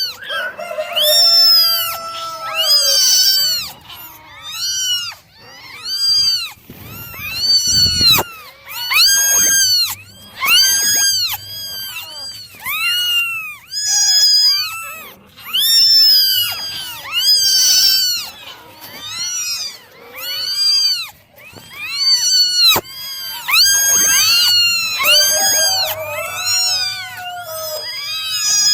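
Several kittens meowing over and over, their high-pitched meows overlapping, with a loud meow about once a second.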